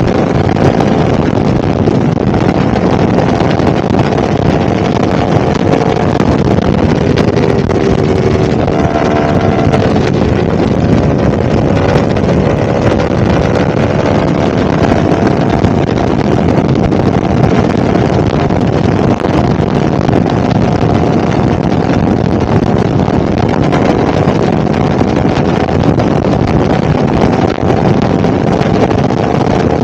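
Yamaha R1 crossplane inline-four engine running at a steady, even pitch under heavy wind noise on the microphone, its note drifting slowly up and down without sharp revs.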